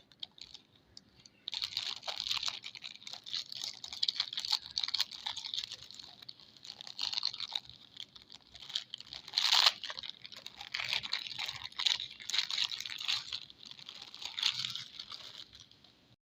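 Soap packaging being unwrapped by hand, with a rapid crinkling, crackling rustle that comes in waves and gets loudest in one sharp crackle about halfway through.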